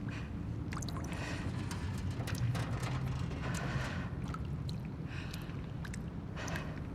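Abandoned-building ambience: a steady low rumble with scattered small clicks and ticks and short bursts of rustling noise.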